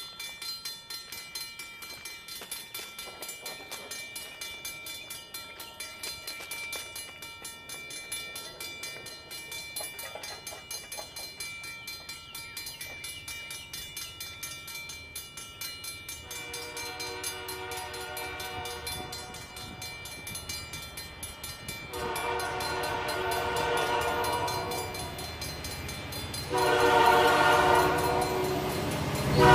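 Grade-crossing warning bell ringing rapidly while an approaching freight train's diesel locomotive horn, on EMD SD70 units, sounds the crossing signal in long chord blasts. The horn starts about halfway through and gets louder with each blast as the train nears.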